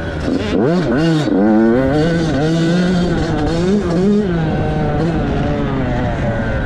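Dirt bike engine running hard, its pitch dipping and climbing sharply a few times about a second in, then holding fairly steady with small rises and falls.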